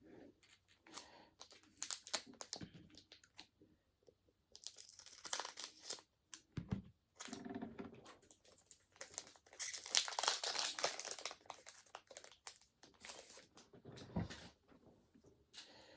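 Foil Pokémon booster pack wrapper crinkling and tearing as it is opened, in two longer stretches about five and ten seconds in, with short rustles and clicks in between.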